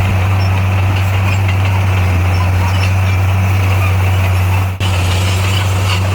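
Bulldozer's diesel engine running steadily with a deep, even hum, briefly dropping out for a moment about three-quarters of the way through.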